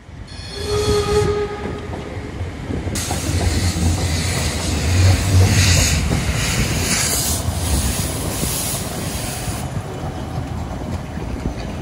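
Steam train: a short whistle blast about a second in, then the train running with a heavy rumble and hiss that swells midway and eases near the end.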